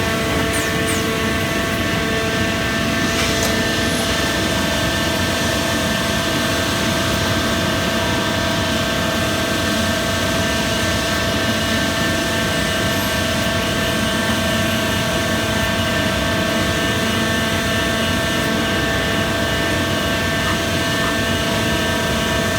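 Citizen A20 Swiss-type CNC lathe running, a steady machine hum with several constant whining tones over a hiss. There are a few faint ticks in the first three seconds.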